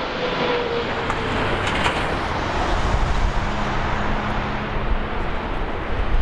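Air Canada Boeing 777-300ER landing: a steady rush of jet engine and air noise, with a faint steady tone that fades in the first second and another, lower one in the middle.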